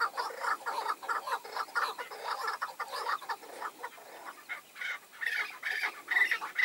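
Chukar partridges calling: a rapid run of clucking chuk notes, several a second, growing louder and higher near the end.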